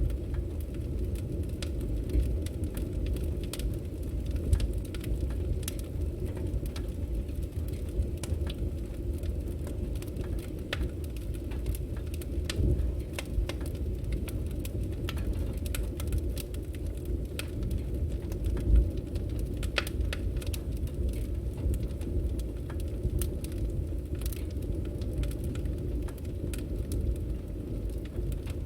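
Firewood burning: a steady low rush of flames with frequent sharp crackles and pops scattered irregularly throughout.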